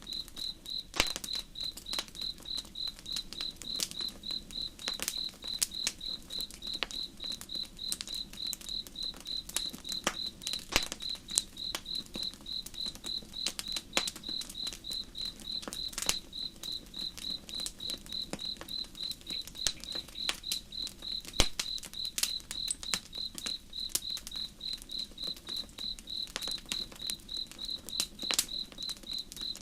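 Campfire crackling with sharp, irregular pops, over crickets chirping in an even, unbroken rhythm.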